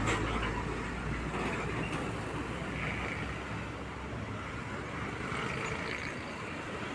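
A truck's engine passing close by: its low hum fades away over the first second or two, leaving steady road traffic noise.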